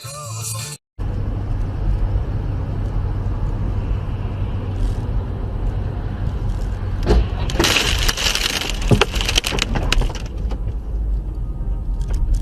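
Car driving with a steady low road rumble, then a collision about seven seconds in: sharp impacts followed by about two seconds of crunching and rattling debris.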